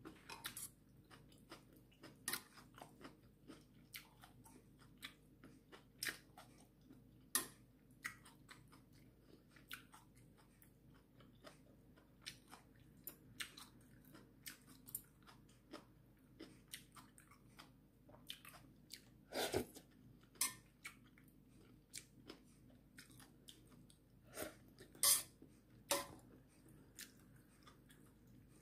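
Close eating sounds of ramyeon: chewing and biting, with scattered sharp clicks of a metal spoon and chopsticks against a stainless steel pot. The loudest sounds come a little after the middle and again near the end.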